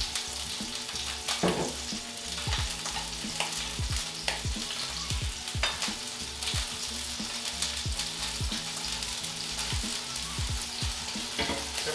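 Salmon fillets and a chicken breast sizzling in hot oil in two frying pans, a steady crackling hiss, with several sharp clicks and knocks of handling at the pans.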